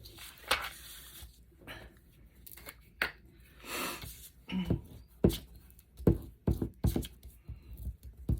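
Paper and craft supplies handled on a tabletop: a brief rustle and a series of light, sharp taps and knocks, coming more often in the second half.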